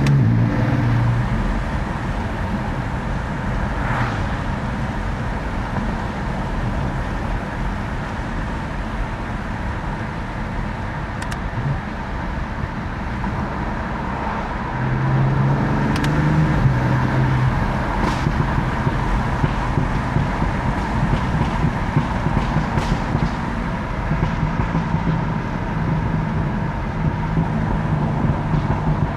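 BMW F80 M3's twin-turbo S55 inline-six running while the car is under way, over steady road and tyre noise. About halfway through the engine gets louder and its note steps up in pitch as the car accelerates.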